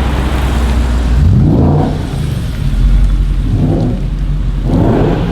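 Audi RS6 C7 Performance's twin-turbo V8 through an Akrapovic exhaust, revved three times in short rising blips over a low rumble.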